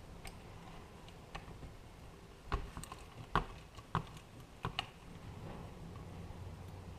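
Scattered light clicks and knocks of metal hand tools and small carburetor parts being handled during disassembly, loudest in a cluster in the middle, over a low steady rumble of wind outside the garage.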